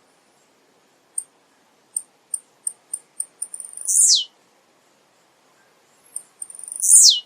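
Male blue-black grassquit (tiziu) singing twice: each song is a run of high, quickening ticks that ends in a loud note sweeping steeply downward.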